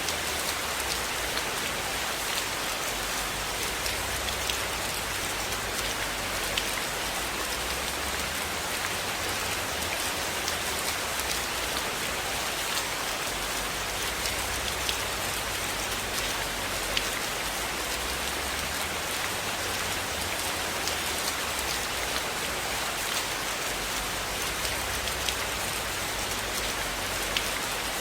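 Steady rain falling, an even hiss with scattered sharp crackles of a wood fire burning in a fireplace.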